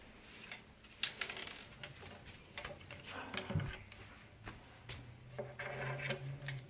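Irregular sharp clicks and taps of a cockatoo's beak picking and gnawing at a wooden perch, with small bits knocking against the wood. A faint low hum comes in about five seconds in.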